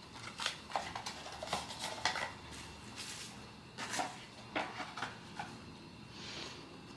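Hands handling a blind box's plastic packaging and the small vinyl figure's parts: a string of light clicks, taps and crinkles, with a soft rustle about six seconds in.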